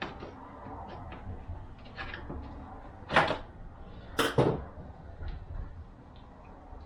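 Pieces of a bearing race and seal driver set knocking and clacking as they are picked through: small taps, with two louder clacks about three and four seconds in.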